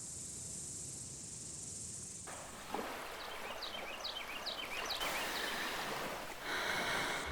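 Outdoor nature ambience: a steady high insect drone, then a cut to an even hiss with a bird chirping repeatedly in short falling notes.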